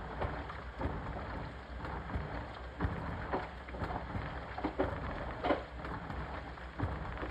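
Washing machine running, water sloshing in the drum with irregular thumps and splashes.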